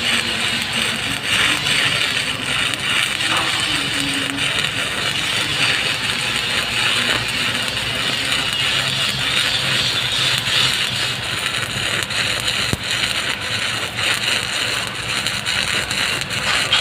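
Stick welding arc burning steadily with a continuous crackle.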